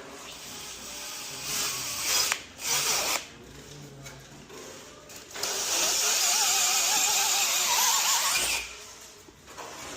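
Power tool running in two short bursts, then a longer steady run of about three seconds with a wavering whine over a hiss.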